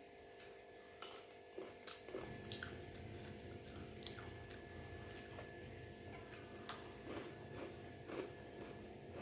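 Close-miked eating: soft mouth clicks, smacks and chewing, with a few sharper bites, over a steady faint electrical hum. A low rumble joins about two seconds in.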